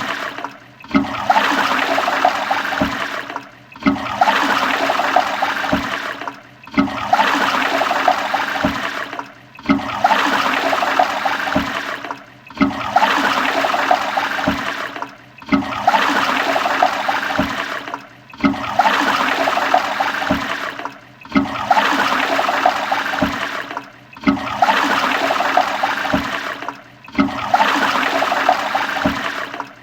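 Toilet flushing: a rush of water that dips briefly and starts again about every three seconds, the same short flush repeated over and over as a loop.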